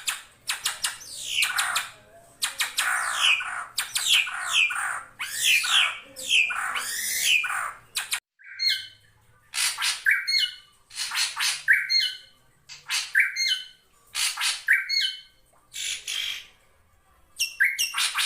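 Drongo giving harsh, scratchy calls with downward-sweeping notes. A dense run comes first; after a short break about eight seconds in, a slower series of short calls follows, roughly one to two a second, pausing briefly near the end before resuming. These are calls meant to challenge and draw in rival drongos.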